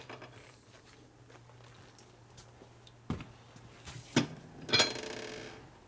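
A few light clicks and knocks of metal engine parts being handled on a workbench, then a brief louder rasping sound near the end, over a low steady hum.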